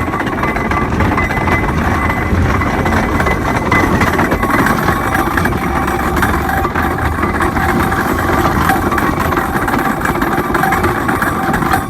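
Marshall steam traction engine running steadily, a continuous mechanical rumble with faint steady tones above it.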